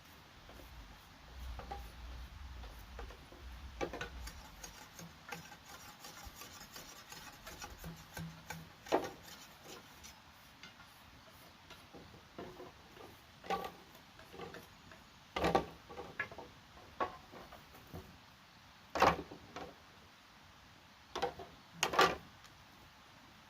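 Light rubbing and scraping, then scattered sharp knocks of wood and bamboo being handled, the loudest knocks near the end.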